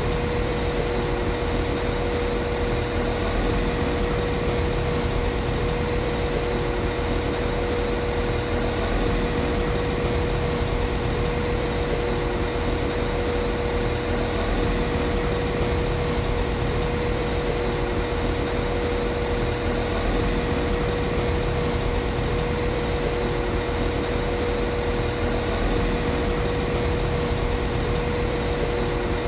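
Diesel engine of a Class 195 CAF Civity diesel multiple unit idling steadily: an even low rumble with a clear, constant hum above it.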